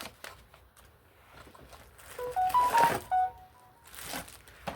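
A brief tune of about eight short, pure notes stepping up and down, with a rustle of handling partway through and another near the end.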